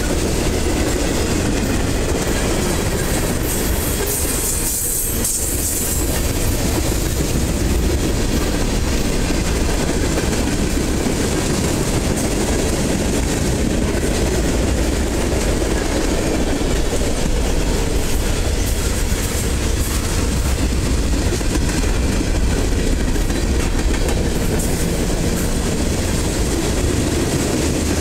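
Freight cars of a passing train rolling by close at hand: a steady rumble and clatter of steel wheels on the rails.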